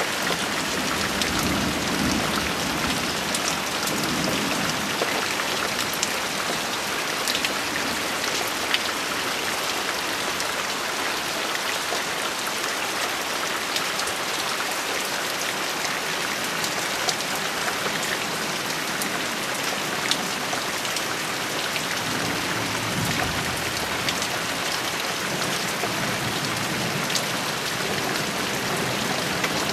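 Steady heavy rain hissing down, with individual drops ticking sharply close by. Two faint low rumbles of thunder come in, one near the start and one about three-quarters of the way through.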